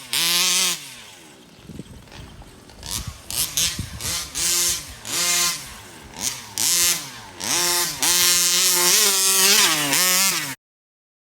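TMR Performance competition-ported 36cc two-stroke engine in a Rovan FT360R RC truck, revving under throttle: a high-rev burst at the start, then a run of short throttle blips rising and falling in pitch, then a held high rev that cuts off suddenly near the end.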